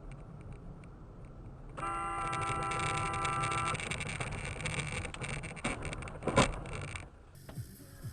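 A car horn sounds steadily for about two seconds over traffic noise, followed by a sharp bang about six seconds in.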